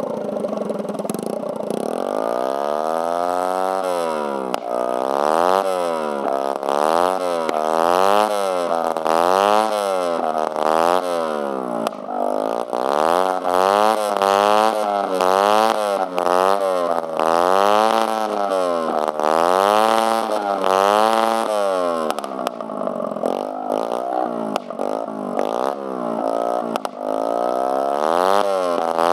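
Peugeot Kisbee 4T 50cc four-stroke scooter engine with an open exhaust pipe and no muffler, revved up and let fall back over and over, about once a second. For the last several seconds the revs come in shorter, choppier blips.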